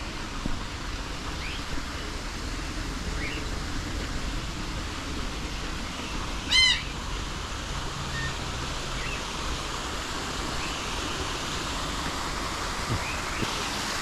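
Wild birds calling in woodland: scattered short chirps, and one louder, harsher call with many overtones about halfway through.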